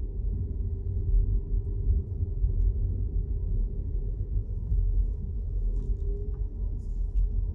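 Car driving: a steady low rumble of road and engine noise with a steady hum, and a few faint ticks near the end.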